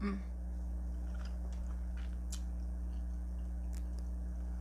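A person chewing a mouthful of crunchy fried food: a few faint, scattered crunches over a steady low electrical hum.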